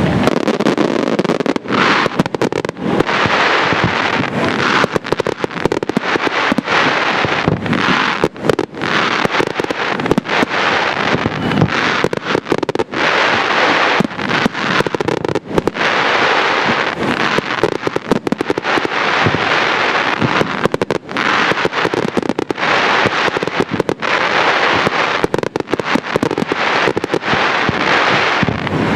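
Aerial fireworks display firing a rapid, nearly continuous barrage of shell bursts, the bangs overlapping with only brief pauses.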